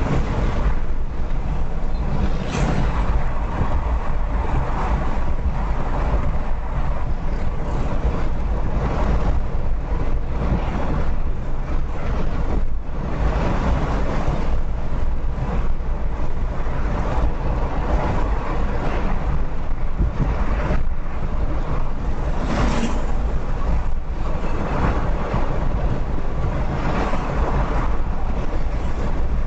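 Steady road and wind rumble of a car driving on a highway, picked up by a dashcam, with a couple of brief swells.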